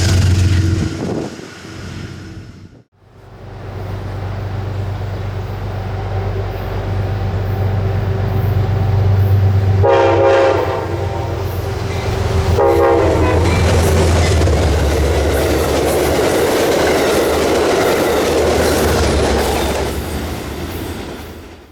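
Amtrak passenger train passing through a station, led by a diesel locomotive. A steady low engine drone is heard, then two horn blasts, the first about ten seconds in and a shorter one under three seconds later. After them comes the rushing and clickety-clack of the cars going by. For the first three seconds the passing of the previous train is heard, before it cuts off abruptly.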